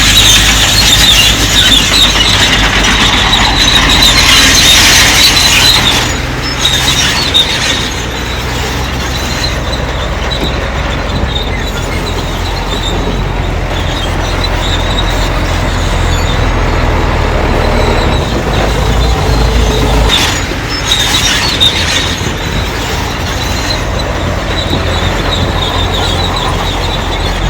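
A bulldozer's steel crawler tracks squealing and clanking under a steady low diesel engine note. The high metallic squeal is loudest for the first six seconds and comes back briefly about twenty seconds in.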